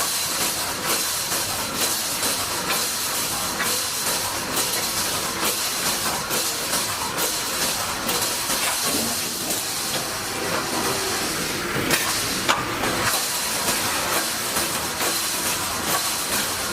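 Wire mesh welding machine running: a steady hiss with regular mechanical knocks roughly once a second, and a sharper clack about twelve seconds in.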